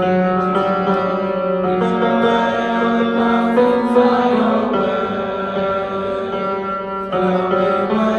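A choir singing long sustained chords, moving together to new notes every second or two.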